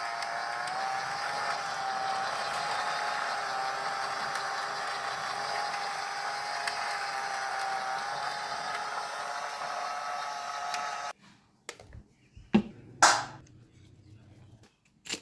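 A small electric motor running with a steady, slightly wavering whine, which cuts off suddenly about eleven seconds in. A few separate clicks and knocks follow, one of them loud.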